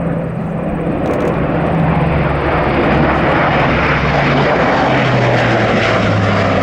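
Airbus A400M Atlas's four turboprop engines with eight-bladed propellers as the aircraft flies past: a loud, steady engine-and-propeller sound that grows louder over the first two seconds. Its tone drops in pitch about four to five seconds in.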